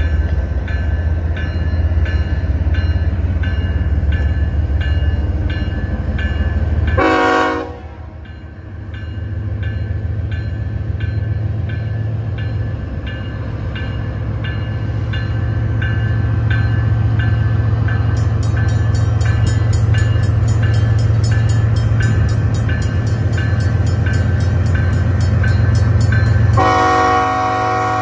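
BNSF freight train's diesel locomotives running with a low rumble that grows louder as they approach. A bell rings about twice a second. The locomotive air horn sounds twice: a short blast about seven seconds in and a longer one near the end.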